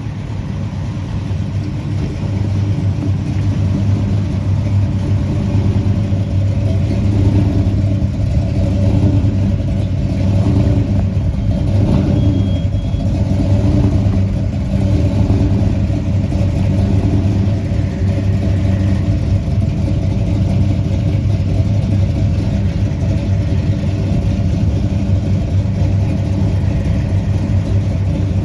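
A car engine running steadily with a deep, even hum, growing louder over the first couple of seconds and then holding level.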